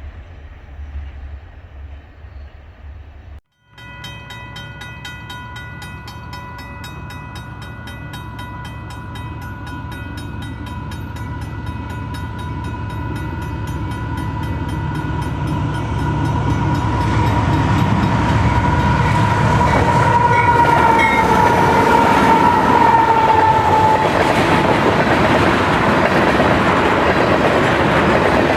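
Diesel locomotive sounding one long, steady horn blast as it approaches, growing steadily louder and dropping in pitch near the end as it passes. Low engine rumble and rising rail and wheel noise of a tanker train build underneath and take over at the end. Before a brief cut a few seconds in, only a low train rumble is heard.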